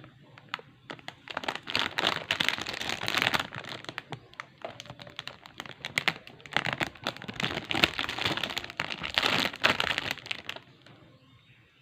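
Plastic crinkling and rustling with many small clicks as a toy and its packaging are handled, stopping near the end.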